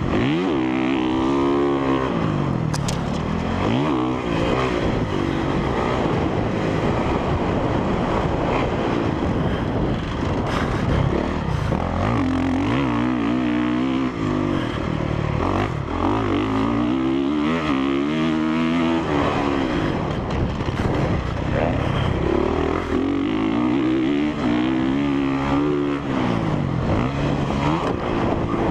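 Honda CRF450R's single-cylinder four-stroke engine, ridden hard around a motocross track, revving up and down continuously as the throttle is worked through jumps and corners.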